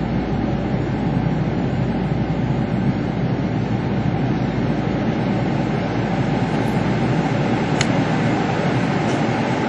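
Steady rumble of a Kintetsu Ikoma Line train heard from inside the passenger car, with a brief high tone about eight seconds in.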